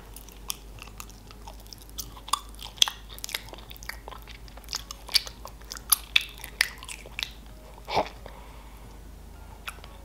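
Close-up mouth sounds of biting and chewing a slice of slimy cephalopod seafood: wet clicks and smacks, several a second, with the loudest smack near eight seconds in.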